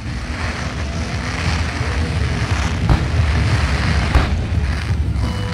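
Fireworks going off: a steady low rumble of bursts with a couple of sharper bangs about three and four seconds in, growing slightly louder.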